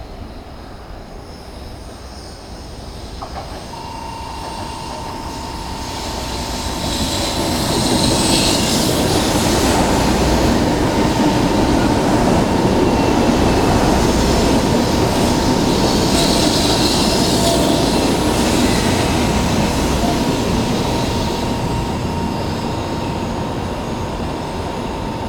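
JR West 100 series Shinkansen six-car set pulling into the station and passing close by: the rumble of its wheels on the rails builds over several seconds, stays loud while the cars go past, then slowly fades. A steady high tone runs over the rumble from about four seconds in.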